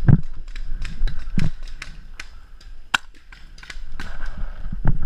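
Paintball markers firing irregular single shots, sharp pops spaced a fraction of a second to a second apart, with a few dull low thumps among them.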